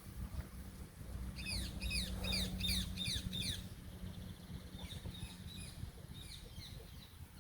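A songbird sings a quick run of about six falling chirps starting a little over a second in, followed by a few fainter notes. A steady low rumble runs underneath.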